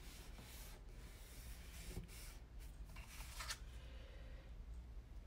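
Soft rustling and sliding of paper and cardstock being handled on a table, with a light tap about two seconds in and a slightly louder rustle just after three seconds.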